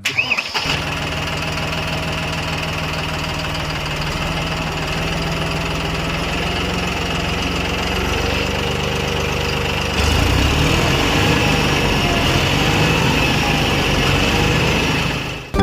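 Tractor engine running steadily, becoming louder and rougher about ten seconds in.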